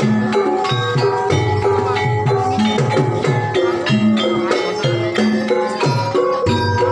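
Javanese gamelan music of the Banyumas style: struck bronze keyed and gong-chime instruments playing a brisk, even pattern over steady drum strokes, the accompaniment to an ebeg (jathilan) horse dance.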